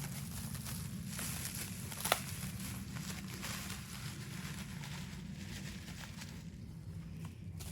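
Packaging rustling and light handling noises as small figurines are unwrapped, with one sharp click about two seconds in, over a steady low hum.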